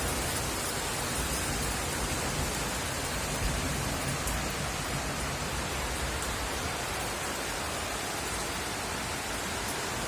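Rain and hail falling in a steady, even downpour, with a few faint sharp ticks among the hiss.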